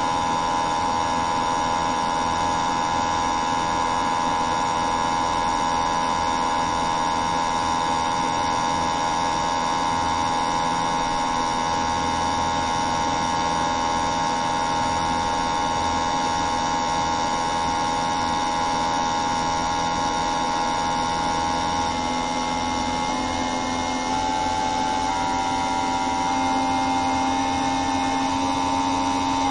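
A steady machine-like drone of several held tones, which shift slightly in pitch about two-thirds of the way through.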